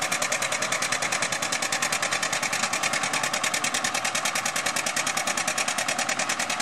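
Antique tractor engine running steadily close by, with a rapid, even pulsing beat of about eight or nine pulses a second.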